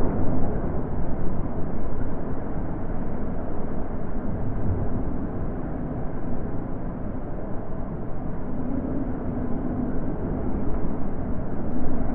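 Natural wind blowing as a low, dull rush. It swells in gusts at the start and again near the end, and is a little softer in between.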